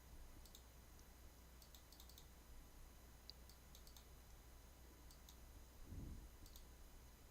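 Near silence, with scattered faint, short clicks of a computer mouse as a chart is marked up.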